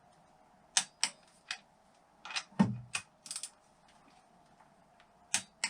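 A series of sharp, separate metallic clicks and clinks from hand tools and bolts being handled while fitting engine bolts, with one duller knock about two and a half seconds in.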